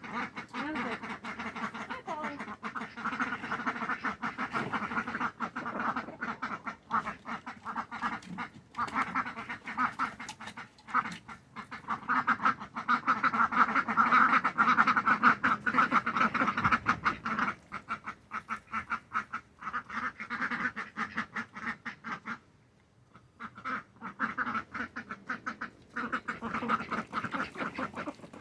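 A flock of domestic ducks quacking continuously in rapid overlapping calls, loudest in the middle, with a brief pause near the end.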